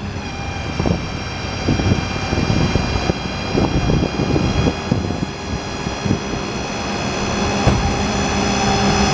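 Hydraulic system of a Summit 6620 truck-mounted crane running off the truck's 6.7 Power Stroke V8 diesel: a steady high whine over the engine's rumble as the boom is retracted, with scattered clunks and knocks, and a second tone rising in pitch near the end.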